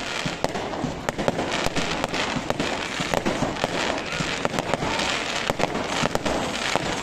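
Aerial fireworks display: a dense, irregular run of sharp bangs and pops from shells bursting, several a second, over a continuous background hiss.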